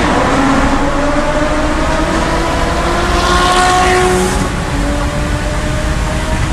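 Car engine under hard acceleration, its pitch climbing steadily, then dropping about four and a half seconds in at an upshift and starting to climb again.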